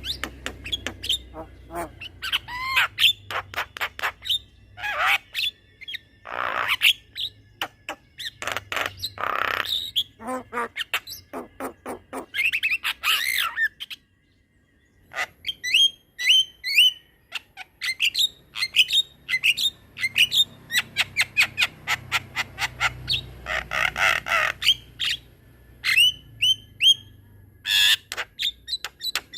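Javan myna singing in a long, fast run of chirps, whistles and harsh squawks, breaking off for about a second midway before starting again.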